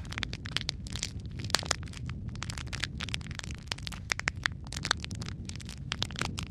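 Wood fire in a fireplace crackling, with frequent irregular pops and snaps over a steady low rumble of burning logs.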